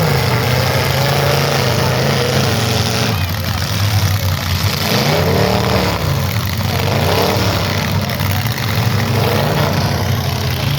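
Demolition derby cars' engines running loudly and revving, their pitch rising and falling again and again.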